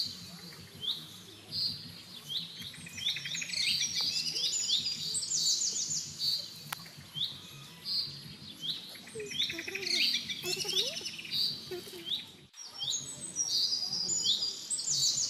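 Several birds chirping: short high notes and quick trills repeating one after another throughout.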